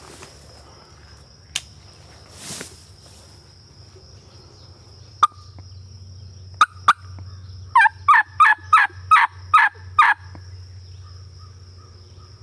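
Turkey yelping: a loud run of about eight yelps, each note sliding down in pitch, about three a second, most likely a hunter's turkey call. Three sharp clicks come shortly before the yelps, and a steady high thin whine and a low hum run underneath.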